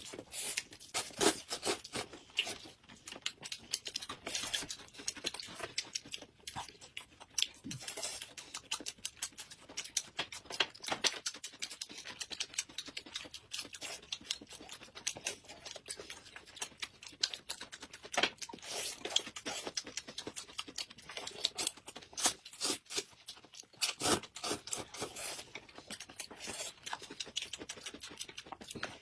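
Close-miked eating sounds: two people biting into and chewing round purple buns, a dense run of small crackling clicks and mouth sounds.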